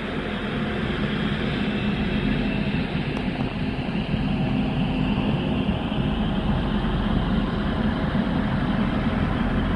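Train running at a station platform: a steady engine drone with a low hum, slowly growing louder.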